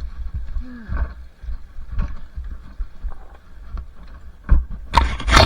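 Two-stroke dirt bike being ridden on a trail, heard as uneven thumping and rumble on the camera microphone with brief rises in engine pitch. A loud burst of noise comes near the end.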